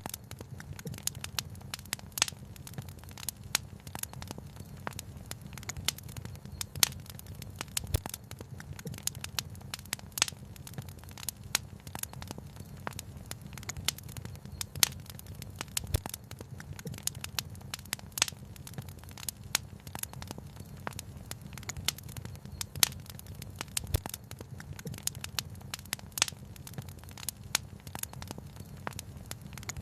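Wood fire crackling, with irregular sharp pops of varying loudness several times a second over a steady low rumble.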